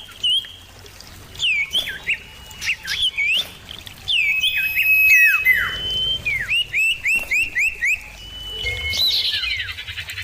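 Common iora (cipoh) singing: clear whistled notes that slide down and back up, a long held whistle about four seconds in, then a quick run of repeated down-slurred whistles, and a harsh buzzy rattle near the end.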